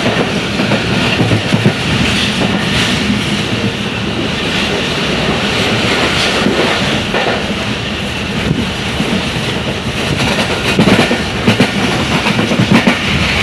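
Passenger train running at speed, heard from inside a coach: a steady rumble of the wheels on the track, with clusters of clickety-clack over the rail joints near the end.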